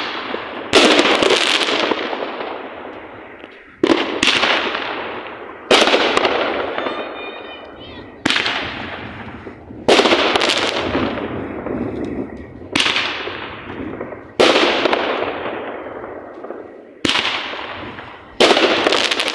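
Fireworks going off: about a dozen loud bangs, one to three seconds apart, each trailing off over a second or two before the next.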